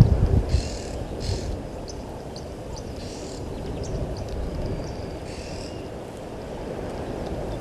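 Waterhole wildlife ambience: a low rumble that eases off in the first half-second, then four short raspy high-pitched animal calls spaced one to two seconds apart over a steady low background hiss.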